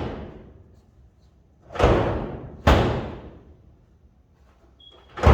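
Door on an old Ford F100 pickup cab slammed three times: about two seconds in, again under a second later, and at the very end. It is not latching shut, which is taken for a latch problem.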